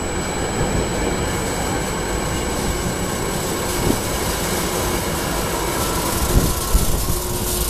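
SEPTA electric commuter train running through the station, a steady rushing noise that builds slightly, with a few low thumps near the end.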